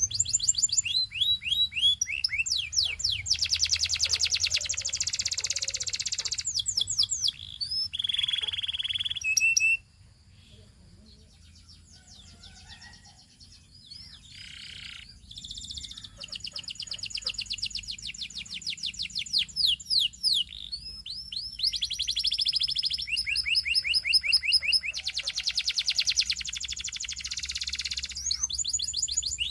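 Domestic canary singing: long, fast trills and rolls of rapidly repeated notes, dropping to a few scattered notes for several seconds about a third of the way in before the trills resume.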